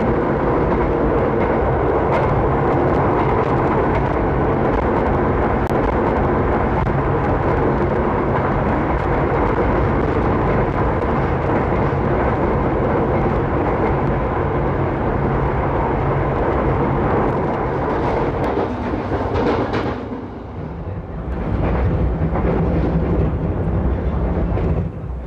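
Running noise of an express passenger train at speed: a loud, steady rumble of wheels on rails with rushing air. About twenty seconds in it drops to a quieter, more muffled running sound.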